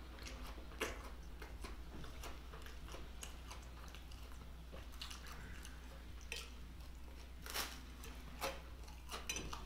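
A person chewing and biting into a rye cracker topped with sausage stir-fry: irregular crunches and mouth clicks, with louder ones about a second in and at about seven and a half seconds, over a steady low hum.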